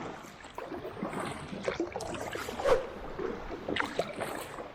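Kayak paddle strokes in seawater: irregular splashes and drips, with one louder splash about midway.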